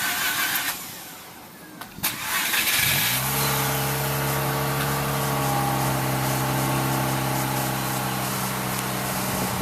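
Cold start of a 2004 Mazda RX-8's twin-rotor Renesis rotary engine through its stock exhaust. The starter cranks, pauses, and cranks again. The engine catches about three seconds in and settles into a steady cold idle.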